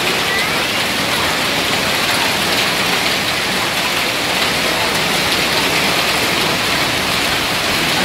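A hailstorm with rain pelting down in a steady, dense patter.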